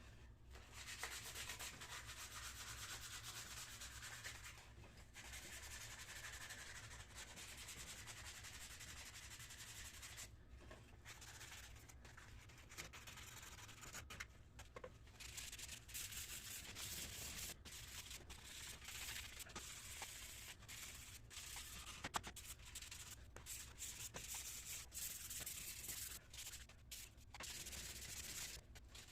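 Faint hand sanding of a wooden plate: sandpaper rubbing back and forth on the wood in long stretches, broken by short pauses.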